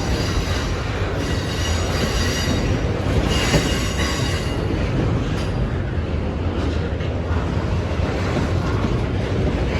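Freight cars of a long intermodal train rolling past with a steady heavy rumble. Thin, high wheel squeal rides over it for the first few seconds, then fades.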